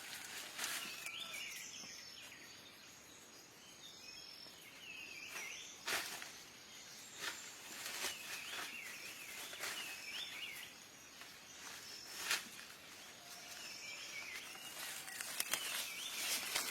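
A small bird calling outdoors with short chirping notes repeated every second or two, over a few sharp snaps or rustles.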